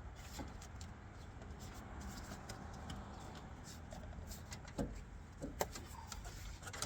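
Faint handling noises from work on the engine's air intake hoses: a few light clicks and knocks, the clearest about five seconds in, over a low steady background hum.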